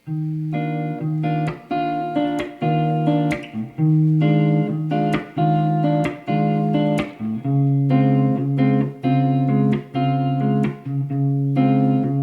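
Guitar playing the song's instrumental intro: plucked chords in a steady rhythm, changing chord every few seconds.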